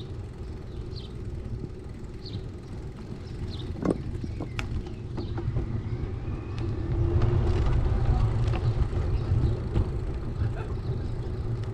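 Steady low rumble of wind and road noise on a bicycle-mounted camera, growing louder about seven seconds in, with a few short bird chirps in the first seconds and a couple of sharp clicks around four seconds in.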